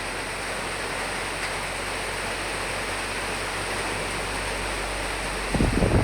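Steady rain hiss. About five and a half seconds in, a louder low rumble of wind sets in.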